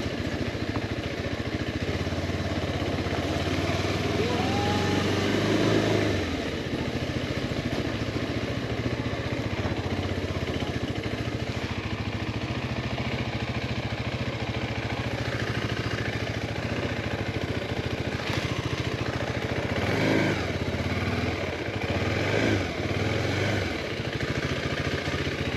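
Motorcycle engine running on the move, its pitch rising and falling around five seconds in and again from about twenty to twenty-three seconds in as the throttle changes.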